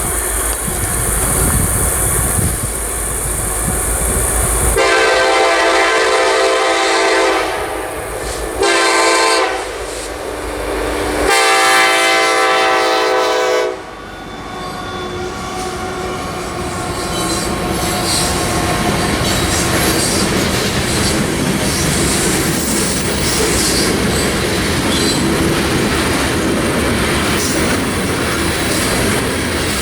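A train's locomotive horn sounds three blasts, the chord starting about five seconds in and ending about two thirds of the way in. The train rolls by with steady rumble and the clickety-clack of wheels on rail joints.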